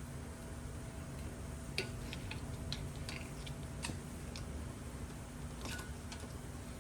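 Light metal clicks and taps, scattered irregularly, from tools working at the snap ring on a lower ball joint held in a vise, over a low steady hum.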